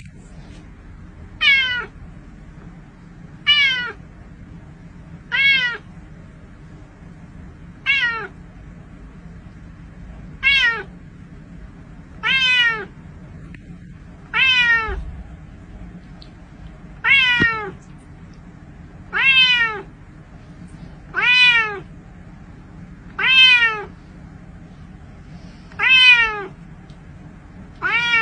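Domestic cat meowing over and over, about once every two seconds, each meow a short call that falls in pitch.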